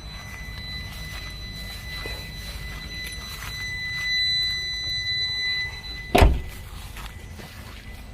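A steady high-pitched tone lasting about five seconds, then a single loud thunk about six seconds in, like a vehicle door or panel being shut.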